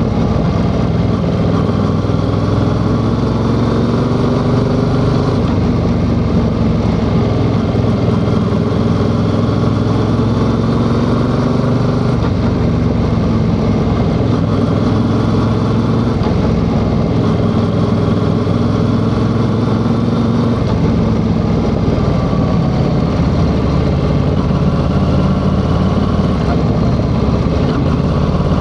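Yamaha XSR700's parallel-twin engine running on the move, its pitch rising and falling gently as the throttle and road speed change, over a steady rush of noise.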